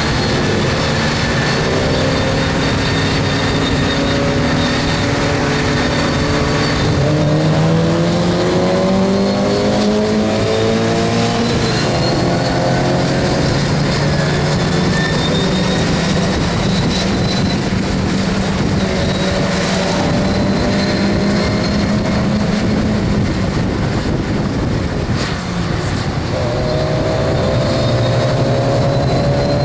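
Stock Mazda MX-5 Miata's four-cylinder engine heard from inside the cabin under race load, its pitch climbing through several gear pulls about a third of the way in, running more steadily through the middle, then climbing again near the end. Wind and road noise run underneath.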